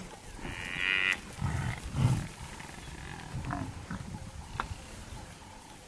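A buffalo calf gives a short, high bawl, followed by low, rough growls.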